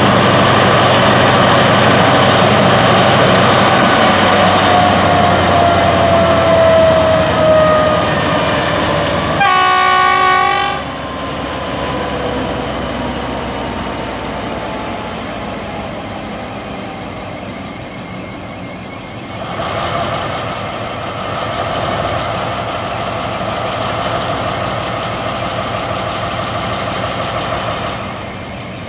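Diesel train running on the rails, with one horn blast of about a second roughly ten seconds in; the noise drops after the horn and stays at a lower rumble.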